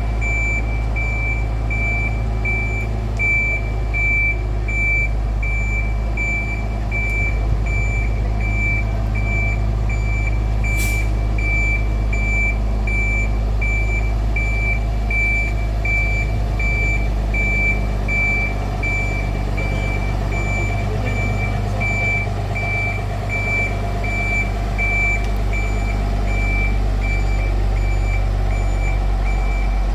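Vehicle reversing alarm beeping steadily, a little more than once a second, over an engine running at a steady low drone.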